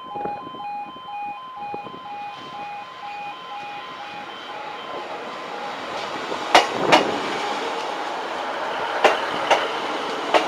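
Level crossing warning alarm pulsing on two tones and fading out, then a Class 156 diesel multiple unit rolling past, its wheels clacking loudly over rail joints in pairs from about two-thirds of the way in.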